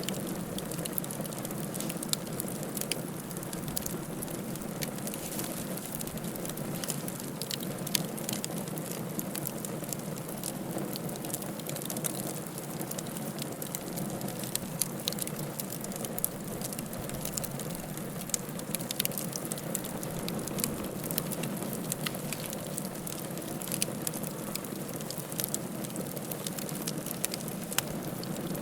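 Fire burning in a fireplace: a steady low rush with frequent small, sharp crackles and pops at irregular intervals.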